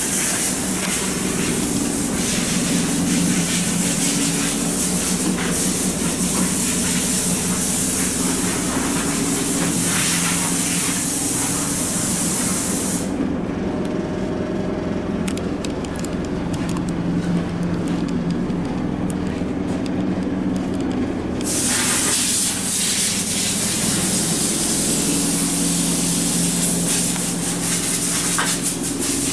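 Steady loud hissing noise over a low droning hum. The high part of the hiss cuts out for about eight seconds in the middle, then returns.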